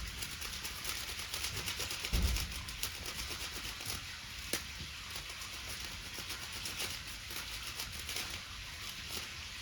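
Wood bonfire crackling, a dense irregular patter of small snaps over a steady hiss, with a sharper pop about four and a half seconds in. Two brief low rumbles come near the start and about two seconds in.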